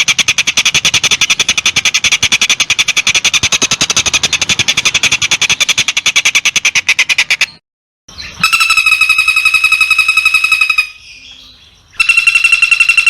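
Recorded calls of the kind used in a master track for training long-tailed shrikes, made of rapid buzzy pulsed trills. One trill runs until about seven and a half seconds in. After a short break, a higher, more tone-like pulsed call comes twice, each time for about two and a half seconds.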